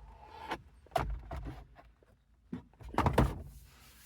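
Plastic dashboard trim being handled and moved: scraping and rustling with two knocks, about a second in and a louder one around three seconds.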